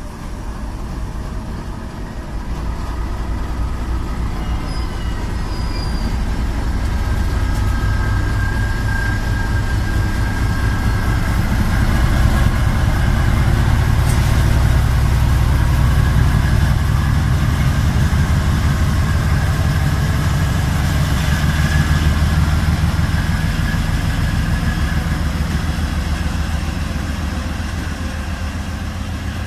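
Bombardier Blue Tiger diesel-electric locomotive (HVLE V330) throttling up and pulling away with a heavy train of steel slabs. Its deep engine note grows louder over the first dozen seconds, then eases off slowly.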